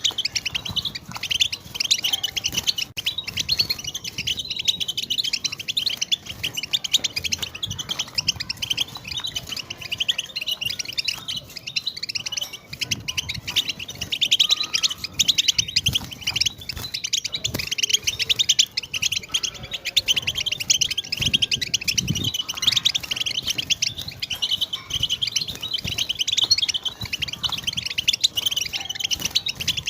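European goldfinch chattering and twittering in a fast, unbroken stream of high chirps and trills. This is the chatter played to prompt a silent goldfinch to start singing.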